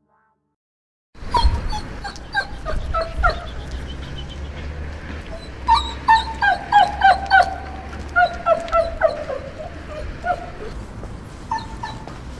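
A dog whining in a series of short, high whimpers, many of them falling in pitch, starting about a second in, over a steady low hum.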